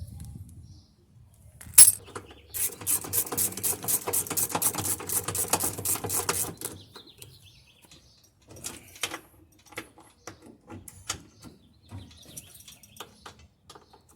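Socket ratchet clicking rapidly, about seven clicks a second for some four seconds, as it runs in the bolts that hold a washing machine's transmission, after one sharp metal clink. Then scattered light metallic clicks and taps.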